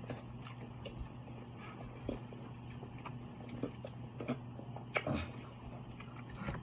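Close-miked eating: soft chewing and small wet mouth clicks, with one sharper click about five seconds in, over a steady low hum.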